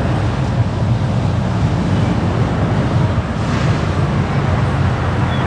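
Steady low rumble of a car driving along a city street: engine and tyre noise.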